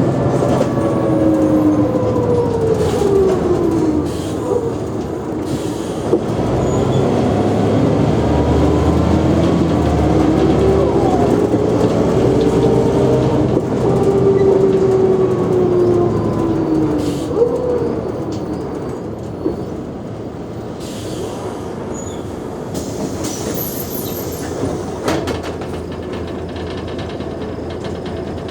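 Mercedes-Benz O345G articulated bus under way: mechanical drivetrain whine that rises and falls in pitch with speed, loudest through the middle and quieter after about two-thirds of the way through. The whine is heard as a sign of the bus's wear.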